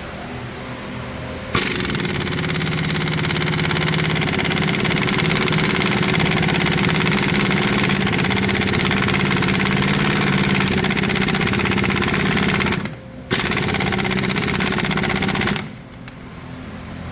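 Impact wrench hammering in a long run of about eleven seconds, a brief stop, then a second shorter run, typical of breaking loose a tight bolt during a timing belt job.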